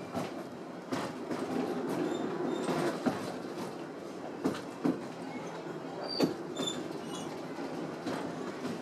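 Narrow-gauge train's passenger car rolling along the track, heard from the open-sided car: a steady rumble of wheels on rails broken by irregular sharp clicks and clunks.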